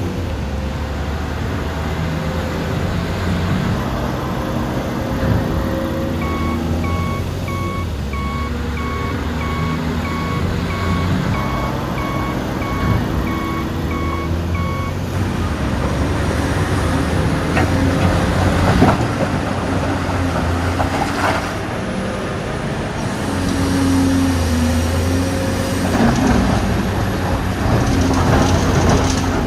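Dubbed-in sound of full-size diesel construction machinery running steadily. A reversing alarm beeps evenly for about nine seconds, starting about six seconds in. In the second half come scattered sharp cracks and clatters of the stone and dirt being worked.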